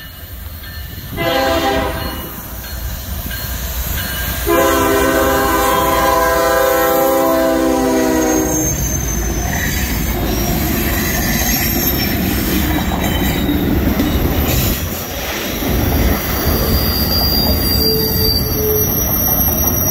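Freight train locomotive horn sounds a short blast about a second in, then a long blast from about four and a half to eight and a half seconds in. The train then rolls past: a steady rumble of locomotives and autorack cars, with high wheel squeal near the end.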